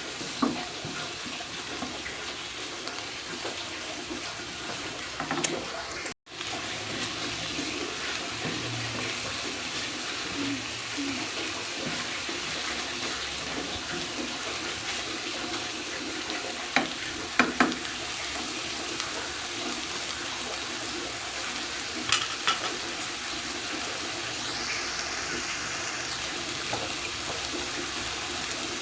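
Food sizzling steadily in a hot pan, with an occasional sharp knock or scrape of a utensil against the pan. The sound cuts out for a moment about six seconds in.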